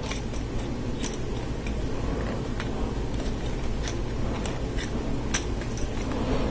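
Scattered light clicks of plastic Lego Technic parts being handled as pneumatic hoses are worked through the model, about one every second or less, over a steady low hum.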